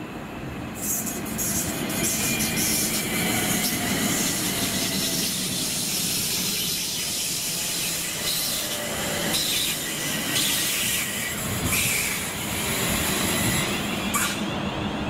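A train passing close by: a continuous rumble and rush of wheels on rail with a high hiss, scattered clicks and a faint squeal. It rises about a second in and the high hiss cuts off sharply about a second before the end.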